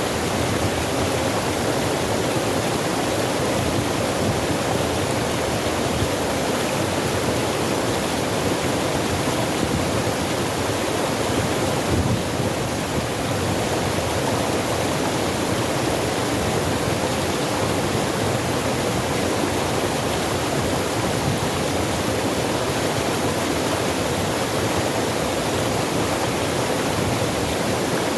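Water rushing steadily over rocks, a constant even hiss with no breaks.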